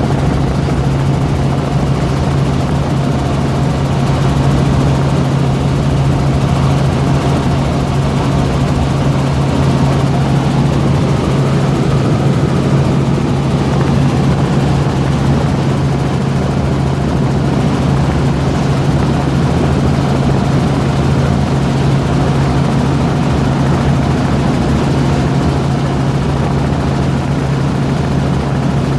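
Helicopter in flight heard from aboard: a loud, steady noise of rotors and engine with a constant low hum.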